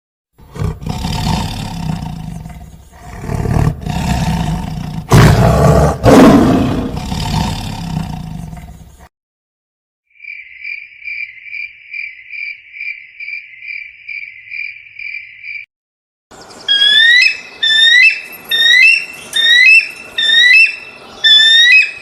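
A sequence of animal calls: a large animal roaring for about eight seconds, then a steady high chirp pulsing about two and a half times a second, then repeated sharp rising high-pitched calls.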